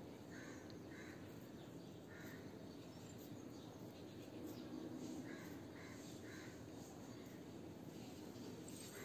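Faint bird calls, short caws, a few near the start and three more in quick succession about five to six and a half seconds in, over a steady background hiss.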